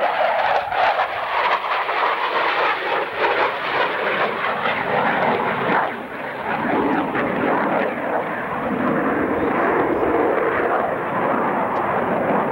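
Jet noise from a CF-18A Hornet's two General Electric F404 turbofans during a fast low pass, loud and rushing, with the sound dropping lower in pitch about halfway through as the jet goes by.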